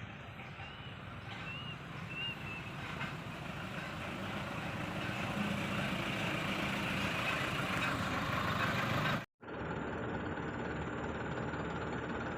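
Diesel engine of a hydraulic excavator at work loading a dump truck: a steady mechanical rumble that grows louder over about nine seconds, with a few faint short high chirps in the first three seconds. The sound cuts out for an instant about nine seconds in, then resumes.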